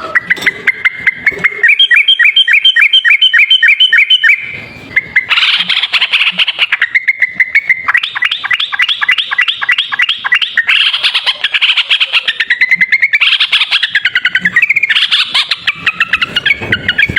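Yellow-vented bulbul (trucuk) singing its rapid 'ropel' chatter: long, loud strings of short, clear notes repeated several times a second, in back-to-back phrases that shift up and down in pitch, with a brief pause about four and a half seconds in. This is a bird-trapper's lure song.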